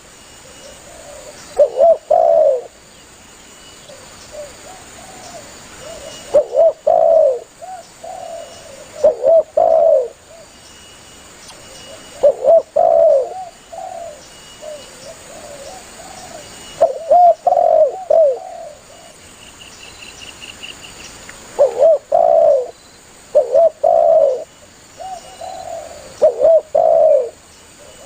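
Spotted dove (tekukur) cooing over and over, the lively call it uses to call to other doves: about eight short phrases of two or three coo notes, a few seconds apart. Faint high chirps sound behind it.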